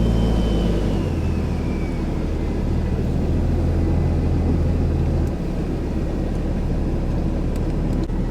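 Car engine and road noise heard from inside the cabin, with a steady low hum that drops in pitch about a second in and again about five seconds in as the car slows.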